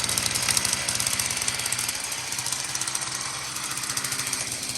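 49cc two-stroke dirt bike engine running steadily with a fast, even pulse.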